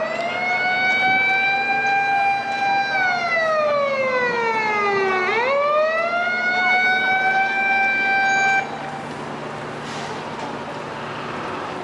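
Japanese fire engine siren wailing. It rises quickly, holds high, falls slowly, then rises and holds again before cutting off suddenly about three quarters of the way through. After that a faint, steady low hum remains.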